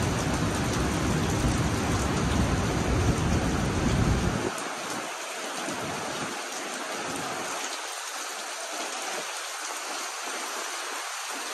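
Heavy tropical-storm rain hissing steadily. A low rumble sits under it for the first four seconds or so and stops suddenly.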